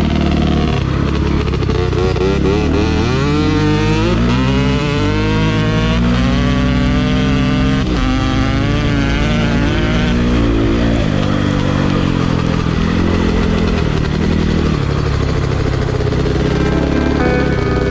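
Dirt bike engine running and being revved, its pitch rising and falling several times in the middle, then holding steadier.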